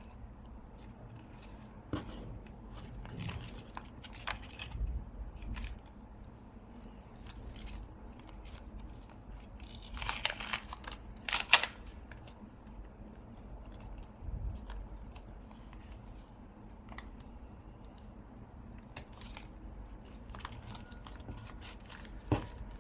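Paper-craft handling: soft taps, clicks and rustles of paper and masking tape, with two louder rasping sounds about ten and eleven and a half seconds in.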